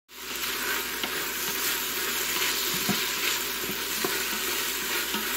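Chopped onion, garlic and ginger sizzling steadily in hot olive oil in an Instant Pot's inner pot on sauté, while a wooden spoon stirs and scrapes through them.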